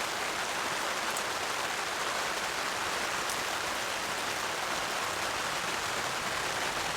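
Heavy rain falling steadily on the heavy-duty tarp overhead and the ground around it, an even hiss with no letup.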